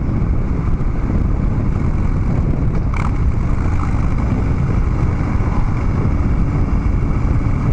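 Harley-Davidson Dyna Street Bob's V-twin running steadily through Vance & Hines Big Radius 2-into-2 pipes while the bike is ridden.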